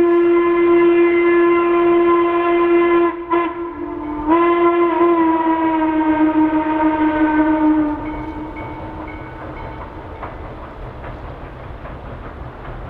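Steam locomotive whistle sounding two long blasts separated by a brief break; the second blast sags slightly in pitch and fades out about two-thirds of the way through. After it, the train runs by with a low rumble and wheel clicks.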